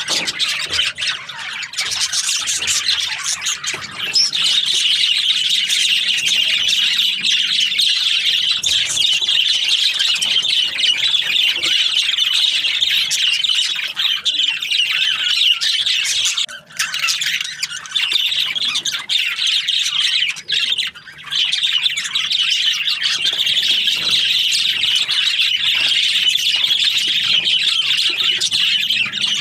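A flock of budgerigars chattering and chirping together in a dense, continuous stream of high calls, broken briefly twice.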